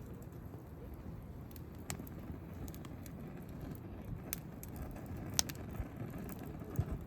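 Wood campfire crackling, with scattered sharp pops, the loudest about five seconds in, over a steady low rumble.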